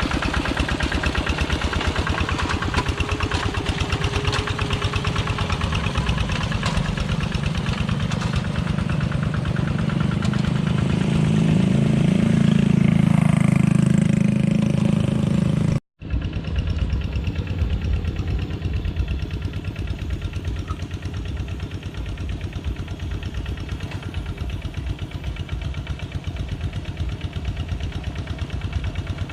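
Engine of a Kubota two-wheel walking tractor running with a rapid steady beat, growing louder for a few seconds past the middle. It cuts off abruptly for an instant just past halfway, then runs on a little quieter.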